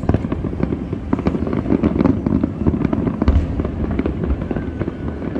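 Fireworks display: a dense, continuous run of bangs and crackling, with deeper booms from shell bursts about two and three seconds in.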